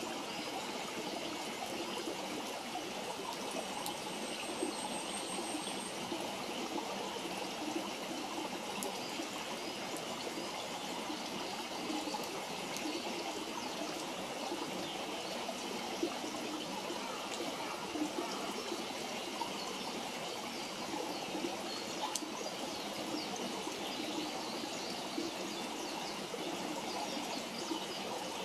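Steady rush of flowing water, with a few short crackles and pops from a wood campfire.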